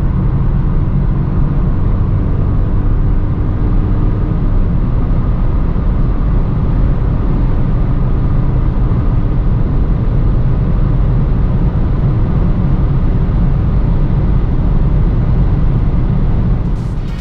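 Skoda Fabia's 1.0-litre turbocharged three-cylinder petrol engine running under hard acceleration at speed, a steady drone under heavy road and wind noise.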